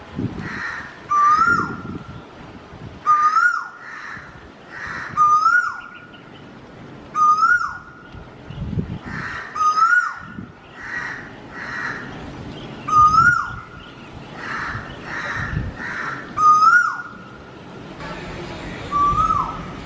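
A bird calling over and over, about every two seconds: a short whistled note that rises and then drops sharply, with high thin chirps alongside.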